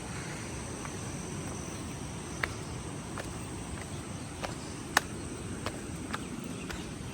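Outdoor ambience: a steady low rushing noise under a thin high insect drone, with scattered sharp clicks or drips, the loudest about five seconds in.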